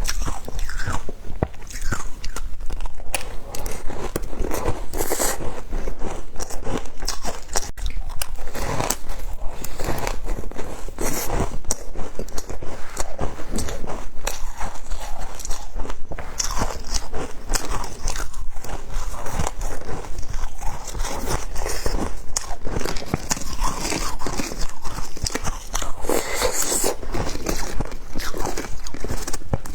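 Close-miked crunching and chewing of frozen matcha ice: a steady run of sharp, brittle crunches as the ice is bitten and ground between the teeth.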